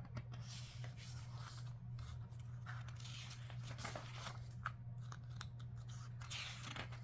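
Soft rustling and crinkling of paper as a book's pages are handled, with scattered light crackles, over a steady low hum.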